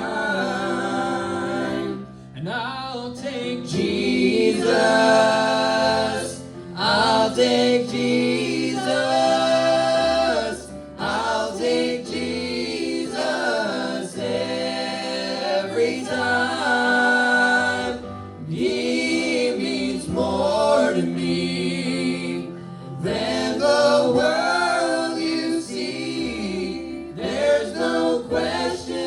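Gospel music with several voices singing together.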